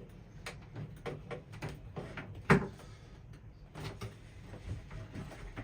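Scattered light clicks and knocks of hands working on wiring and small parts, with one sharper knock about two and a half seconds in.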